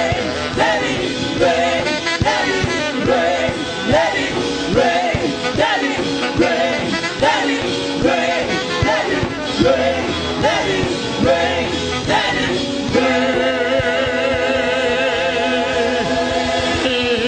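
Live gospel worship song: singing over a band with a steady beat. About thirteen seconds in, the voices settle into long held notes with a wavering vibrato.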